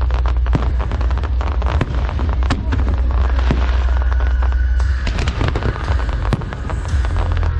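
Fireworks going off in quick succession: many sharp bangs and crackles close together over a continuous low rumble.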